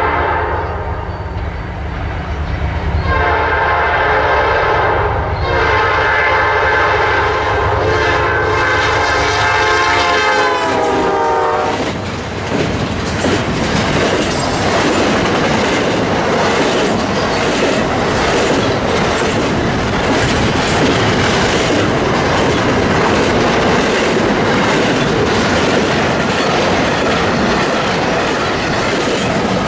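Approaching diesel freight locomotive with a low engine rumble, then its multi-tone air horn sounding for about eight seconds, the horn's pitch dropping as the locomotive passes. After that, the steady rumble and rail clatter of a long intermodal train's cars rolling past close by.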